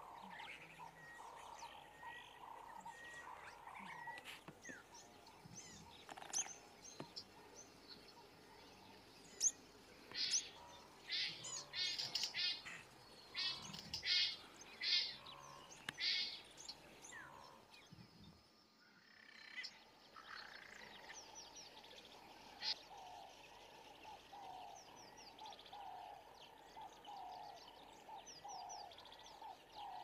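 Wild birds calling and chirping. A run of loud, rapid chirps comes in the middle, and a short falling call repeats about twice a second near the end.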